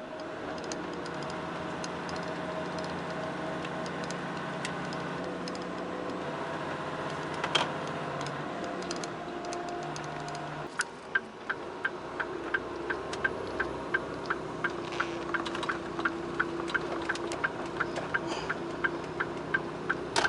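Inside a truck cab, the Mitsubishi Fuso Super Great's 6R20 diesel engine runs steadily. About ten seconds in the engine note changes, and an indicator relay starts clicking quickly and evenly, about two to three clicks a second.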